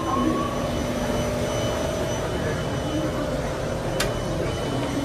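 Steady hum of a stopped MRT train with its doors open as passengers step aboard, with faint chatter and one sharp click about four seconds in.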